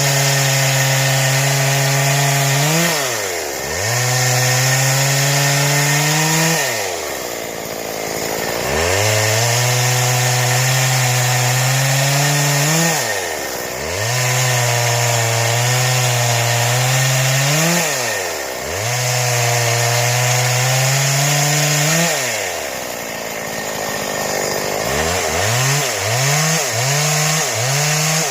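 Stihl two-stroke chainsaw held at full throttle for several-second stretches, as when cutting wood into boards. The revs drop back to idle about five times between stretches, and near the end the throttle is blipped several times in quick succession.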